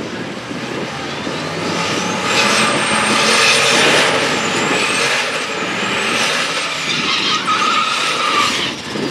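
V8 drag cars running at full throttle down the strip, with a high whine that rises about two seconds in, wavers, and falls away near the end.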